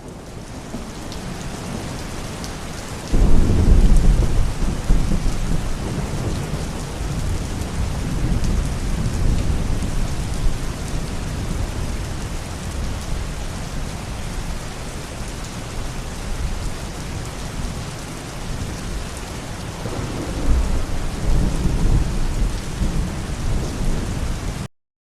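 Heavy rain falling steadily. A loud crack of thunder breaks about three seconds in and rumbles on for several seconds, and a second roll of thunder comes near the end.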